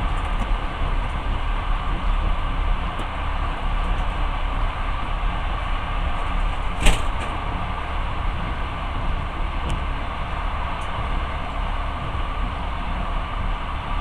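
Passenger train in motion, heard from inside the carriage: a steady running rumble and hiss of the wheels on the rails, with one sharp knock about halfway through and a few faint ticks.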